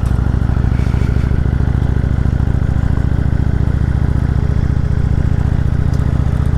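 Indian Chieftain Dark Horse's V-twin engine running steadily as the motorcycle rides a dirt-and-gravel road, with some clatter from the loose surface.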